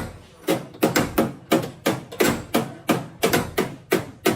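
Hammer blows on car-body sheet metal, a steady run of sharp strikes about three a second, each ringing briefly: panel beating out accident damage.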